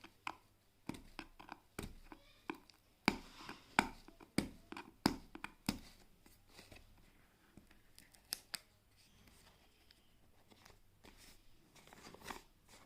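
Seal stickers on a cardboard product box being broken open by hand: scratchy tearing and a run of sharp clicks and taps on the box, busiest a few seconds in.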